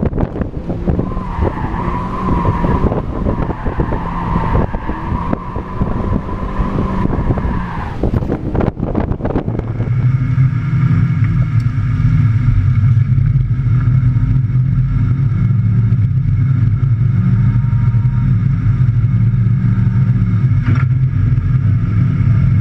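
Mazda MX-5 NB's 1.8-litre four-cylinder engine heard from inside the cabin while drifting, with a wavering tyre squeal over it for the first several seconds. From about ten seconds in, the engine drones more loudly at a steadier pitch.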